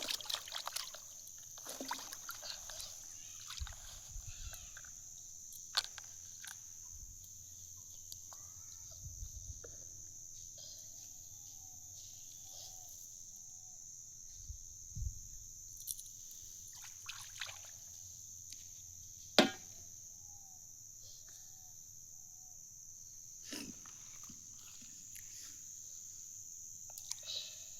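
Crickets chirring steadily in a continuous high band, with scattered small water splashes and knocks, one sharp knock about nineteen seconds in.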